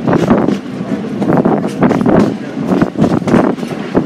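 Rail car rolling along the track, its wheels clattering irregularly over the rail joints with a steady rumble underneath.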